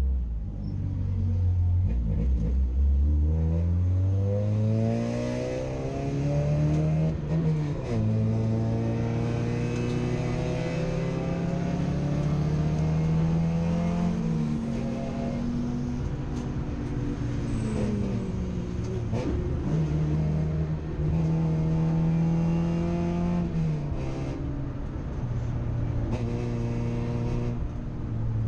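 A race car's engine heard from inside its stripped cabin, pulling hard through the gears on track: its pitch climbs steadily, breaks at a shift about seven seconds in, holds, then falls away around fourteen seconds and again near twenty-four as the driver lifts and slows for corners before accelerating again.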